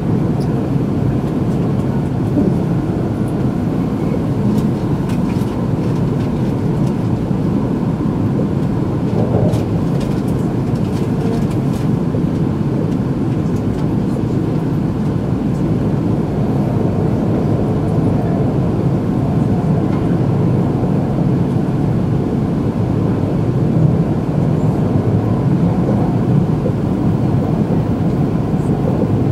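Steady running noise inside an E2-series Shinkansen passenger car moving along elevated track: a continuous low rumble of wheels on rail and the train's running gear, heard through the cabin.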